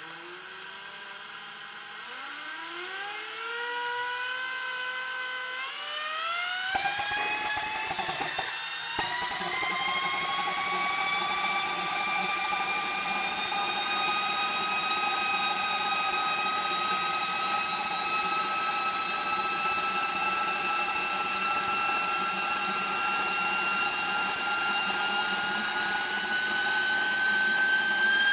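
Small homebuilt gas turbine engine starting up: a whine that rises in steps as it spins up, a few seconds of crackling about seven seconds in, then a steady turbine whine that slowly climbs in pitch and rises faster near the end.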